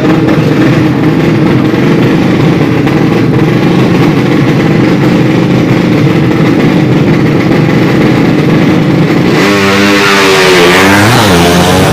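200cc drag bike motorcycle engines running at steady high revs, then a louder stretch near the end where the engine pitch dips and climbs again as a bike accelerates hard.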